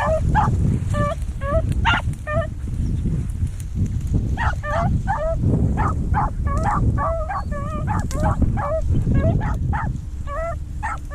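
Pack of beagles baying as they run a rabbit, a rapid run of short, high, overlapping bawls, with a low rumble underneath.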